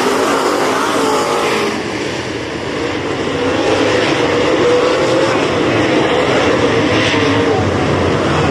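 Race car engine running loud and steady on the dirt track, its pitch wavering slightly up and down.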